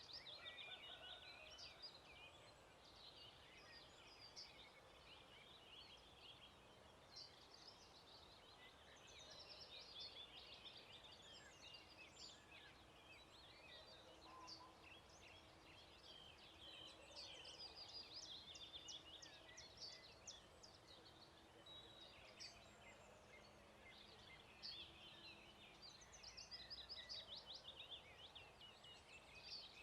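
Faint dawn chorus of many songbirds singing at once, a dense run of quick chirps and trills. A faint low steady hum runs under it through the middle.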